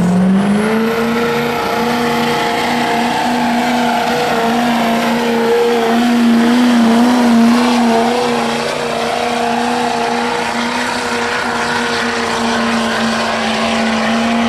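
Pulling truck's engine at full throttle during a sled pull. The revs climb in the first second, then hold at a steady high pitch with slight wavering.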